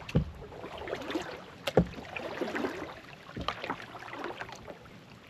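Kayak paddling: water splashing and dripping off the paddle, with a low knock on each stroke about every second and a half.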